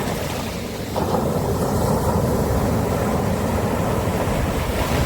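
Sea waves washing on a beach: a steady, low rush of surf that swells louder about a second in as a wave comes in.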